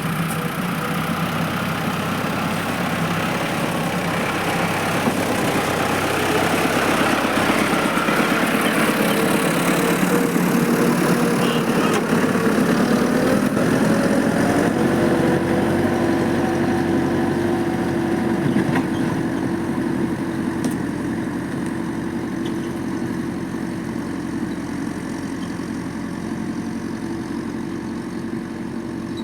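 Tractor engine running steadily; its note changes about halfway through and then holds steady.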